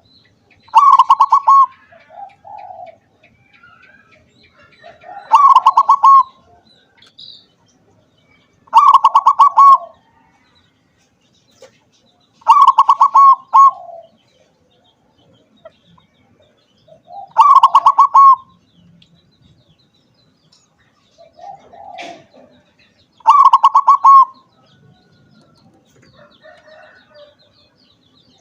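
Zebra dove (perkutut) singing: six loud, rapidly pulsed coo phrases, each about a second long and spaced several seconds apart, with softer lower notes in between.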